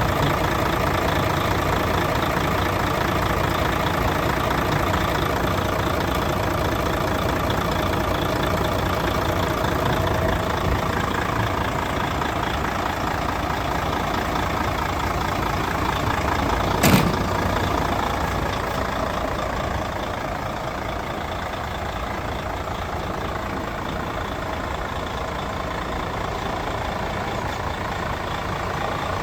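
Mercedes-Benz Actros 4140 truck's diesel engine idling steadily, with one sharp knock more than halfway through.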